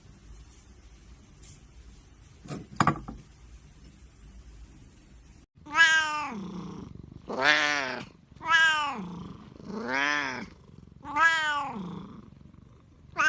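A domestic cat meowing loudly and repeatedly: about five long, drawn-out meows a little over a second apart, each rising and then falling in pitch. They follow a few quieter seconds that hold one short sound.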